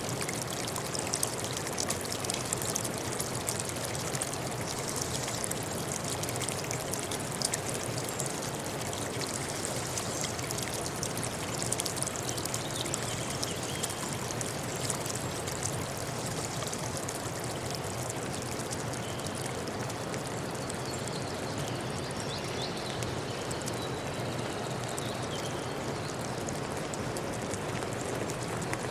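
Stream water flowing steadily, an even rush with small splashes.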